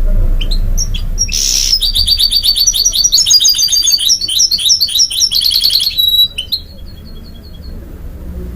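Goldfinch × canary mule singing: a few short chirps and a brief harsh rasp, then about four seconds of rapid, high trilled phrases, ending in a quieter string of short notes about six seconds in.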